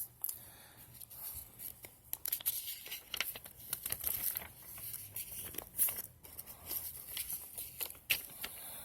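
Paper rustling and crinkling, with scattered sharp crackles, as the pages of a printed instruction manual are handled and turned.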